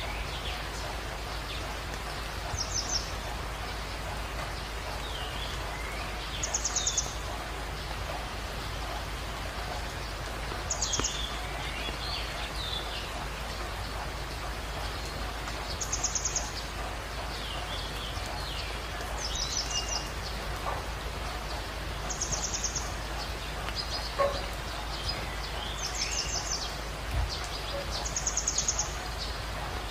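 Birds singing over a steady hiss. A short, fast, high-pitched trill repeats about every three to four seconds, and softer lower chirps fall between the trills.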